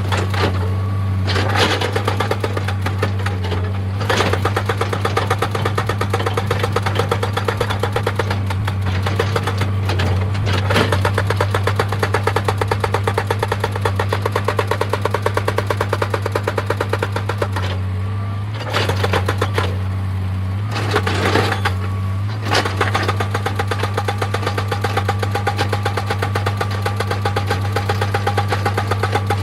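Excavator running under load with a fast, steady, rhythmic clatter over its engine hum. The clatter breaks off briefly about 18 and 22 seconds in.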